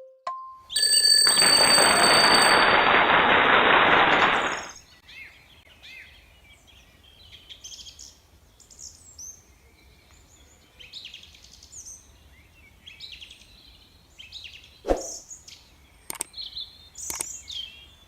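A loud rushing noise burst lasting about four seconds, then many small birds chirping and twittering quietly in short quick notes, with a few sharp clicks near the end.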